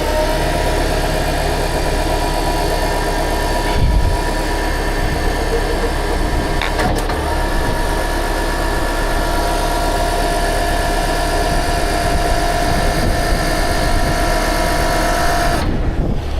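Heavy rotator tow truck's engine running under load while its hydraulics work, a steady drone with a whine over it that cuts off suddenly near the end. There is a single knock about four seconds in.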